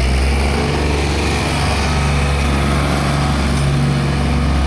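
Diesel tractor engine running steadily, a low even drone with no change in pitch.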